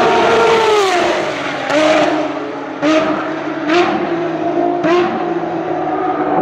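Ferrari race car engine slowing for a corner: the engine note falls, then comes four quick throttle blips about a second apart as it downshifts through the gears, the pitch jumping up with each shift.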